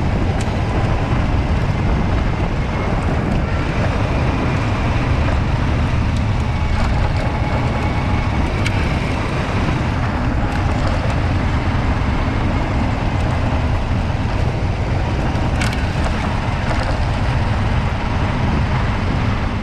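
Motorcycle on the move: a loud, steady rumble of wind buffeting the microphone over engine and road noise.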